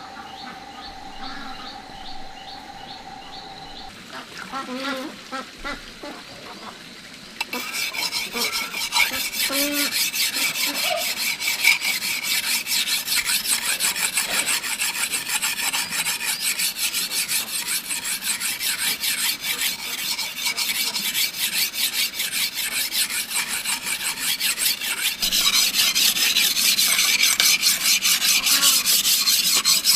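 A rapid, steady rasping or scraping sound that starts abruptly about seven seconds in and grows louder near the end, with birds chirping faintly before it begins.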